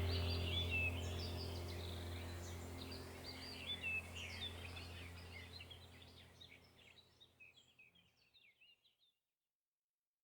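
Birds chirping over a low steady hum, both fading out over about the first seven seconds.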